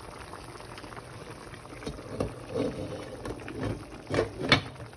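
A pot of food bubbling on the stove, with a few sharp clinks and knocks of cookware. The loudest knock comes near the end.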